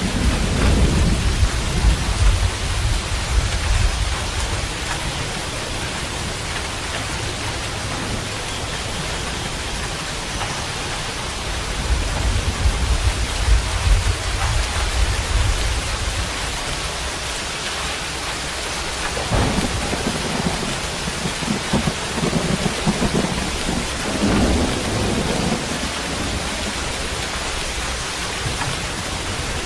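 Steady rain falling with rolls of thunder: low rumbles swell near the start, again about halfway, and several more in the last third.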